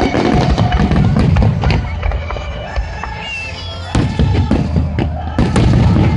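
Fireworks display: aerial shells bursting in a rapid run of bangs over a low rumble, easing off about halfway through, then picking up again. Music plays underneath.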